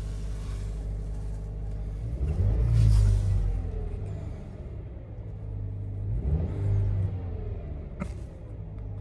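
Subaru Levorg's turbocharged boxer four-cylinder engine idling and revved twice: a blip about two seconds in that rises and falls back to idle, and a second, smaller one about six seconds in. A sharp click near the end.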